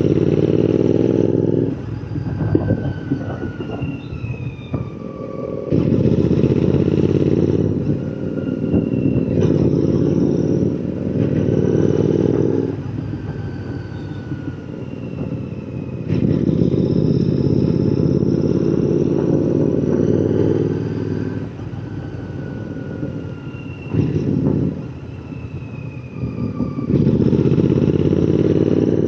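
Royal Enfield Continental GT 650's parallel-twin engine through an aftermarket AEW 103 exhaust, ridden on the move. It pulls hard under throttle about six times, dropping back to a quieter off-throttle note between pulls.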